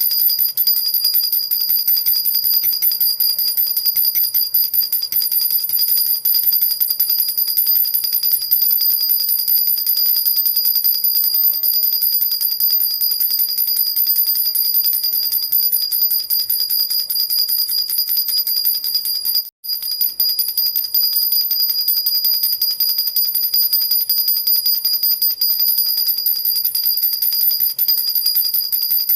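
Silver jhunjhuna, a metal baby rattle with small bells, shaken without pause: a fast, even jingling with a steady high ringing over it, broken by a momentary gap about two-thirds of the way through.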